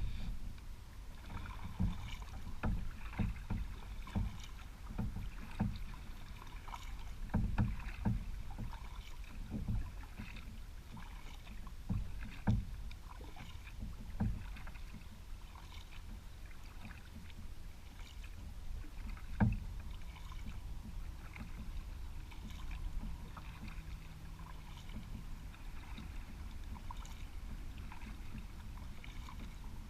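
Kayak being paddled on a river: water sloshing and splashing with irregular knocks, frequent at first and thinning out after about two-thirds of the way through.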